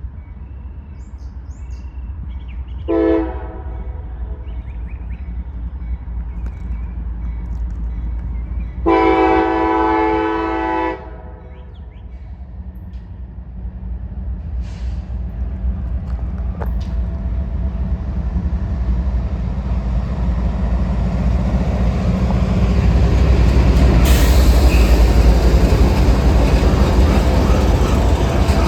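Diesel freight locomotive sounding its horn, a short blast about three seconds in and a longer blast of about two seconds about nine seconds in, over a steady low engine rumble. The train noise then grows steadily louder as it draws near, with a sharper rise about twenty-four seconds in.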